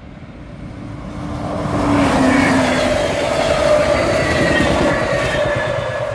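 A diesel-hauled ALEX passenger train passing close by. It grows louder from about a second in, stays loud for about three seconds while the locomotive and coaches go by, then fades. The locomotive's engine tone drops slightly as it passes, over a steady rumble of wheels on the rails.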